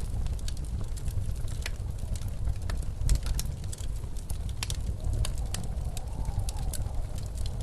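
Wood fire crackling with irregular sharp pops over the low, steady rumble of blizzard wind. A faint wavering wind howl rises about five seconds in.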